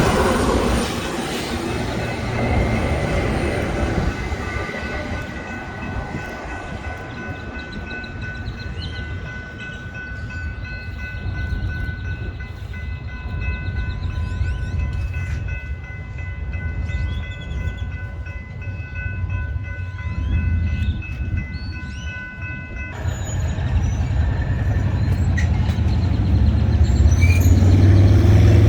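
Train rumbling past, with a chord of steady high tones held for about twenty seconds that cuts off suddenly, and a louder low rumble building near the end.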